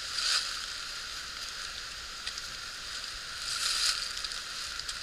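Outdoor ambience: a steady hiss that swells briefly near the start and again about three and a half seconds in.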